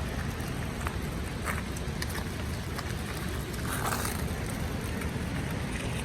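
Steady roar of a waterfall: dense rushing noise, heaviest in the low end, with faint scattered clicks.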